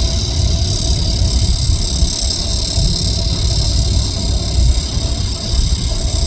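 Low, uneven rumble of the LORAM SBC-20 rail ballast cleaner at work in the distance, with insects buzzing high and steady over it.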